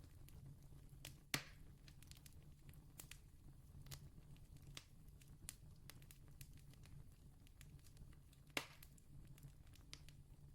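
Campfire crackling faintly, with scattered small pops and two louder snaps, one about a second and a half in and another about seven seconds later, over a low steady rumble.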